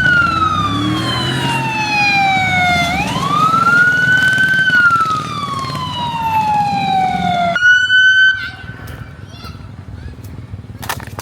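Emergency vehicle siren wailing in slow rising and falling sweeps. About three quarters of the way through, it holds a brief steady tone and then cuts off suddenly, leaving quieter outdoor noise with a few clicks.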